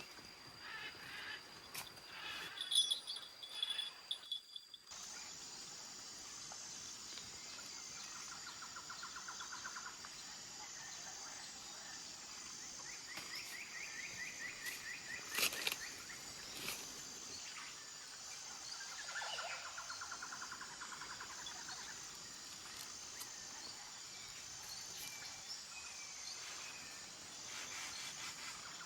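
Forest birds giving several rapid trills over a steady high-pitched insect drone that pulses evenly. There is a single sharp click about halfway through.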